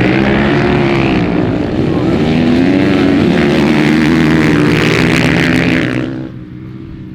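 Off-road vehicle engine running loud and close under load, its pitch rising and falling as it revs, over a steady hiss. It drops away sharply about six seconds in.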